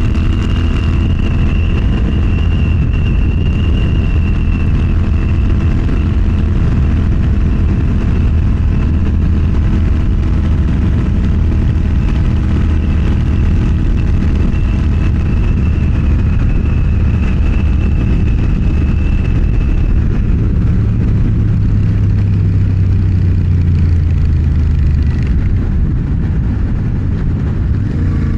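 Motorcycle engine running steadily at cruising speed, with wind and road noise. Its low rumble grows louder for a few seconds about three-quarters of the way through.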